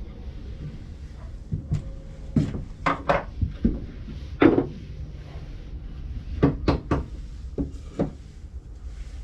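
Irregular wooden knocks and clacks, about a dozen, as pieces of wood are handled and set down on a workbench; the loudest comes about halfway through.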